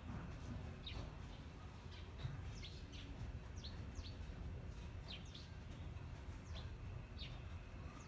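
A bird chirping: a string of short, high notes, each falling in pitch, coming irregularly about every half second to a second, over a low steady rumble.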